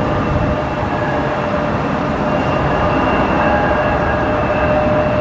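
Jet aircraft engines running with a steady loud rumble and a high, steady whine.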